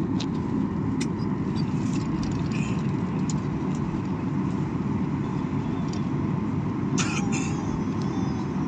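Steady low rumble of a passenger airliner moving, with a faint steady whine above it.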